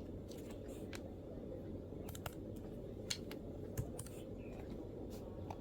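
MacBook laptop keyboard being typed on: soft, irregular key clicks at a few per second, two sharper keystrokes about three and four seconds in, over a steady low background hum.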